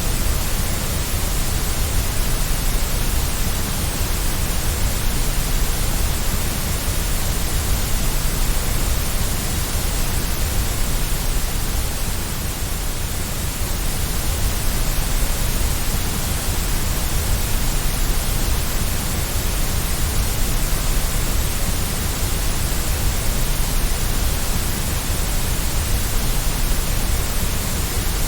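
Steady white noise: a constant, even hiss across the whole range of pitch, with a slight dip in level about halfway through.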